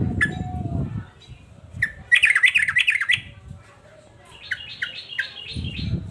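Male yellow-vented bulbul (trucukan) singing: a loud burst of rapid warbling notes about two seconds in, then three short falling notes around five seconds. A low rough sound runs through the first second and comes back near the end.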